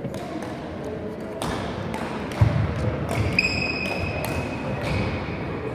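Badminton play in a sports hall: sharp knocks of rackets striking the shuttlecock and feet on the court, with the loudest hit about two and a half seconds in. A steady high squeal runs for about two seconds from the middle.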